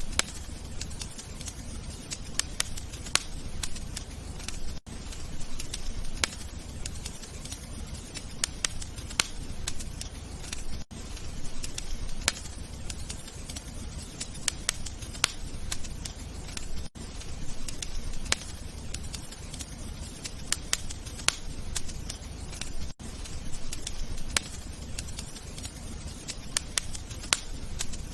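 Wood fire crackling in a fireplace: a steady low rumble of burning with frequent sharp irregular pops and snaps. The sound dips out briefly about every six seconds, as a looped recording does.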